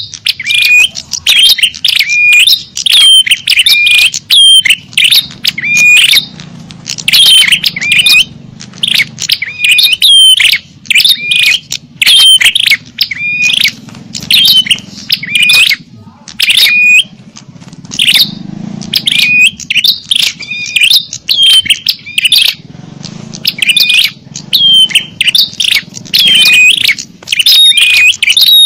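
Small-bird lure call: small birds chirping in a fast, busy series of sharp, high, hooked notes, several a second, with brief pauses between bursts.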